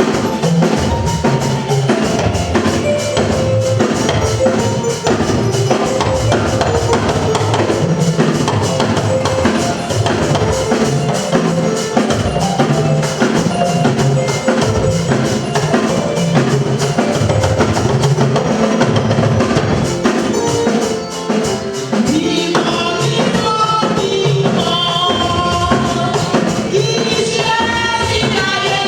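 Church band music with a drum kit and tambourine keeping a steady, busy beat; voices singing come up over it in the last few seconds.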